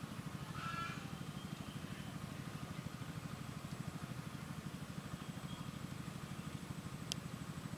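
An engine idles steadily with a fast, low pulsing throughout. About half a second in, a white-rumped munia gives a short call over it, and a sharp tick comes near the end.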